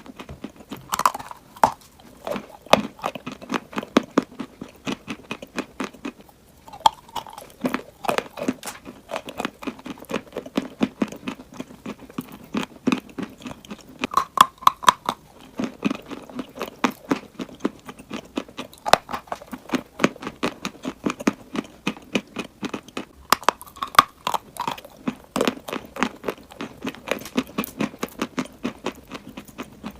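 Close-miked chewing of crunchy clay chalk: a steady run of rapid dry crunches and bites, with a short lull about six seconds in.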